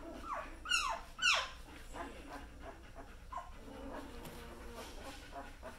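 Newborn German Shepherd puppies whimpering: a run of short, high, falling cries, the two loudest around a second in, then fainter ones.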